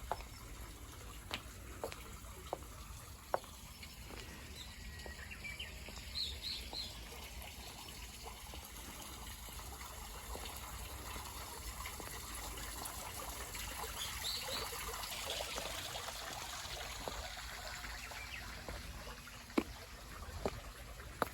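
Quiet outdoor ambience: a steady hiss with a few short, high bird chirps about six and fourteen seconds in, and scattered light clicks.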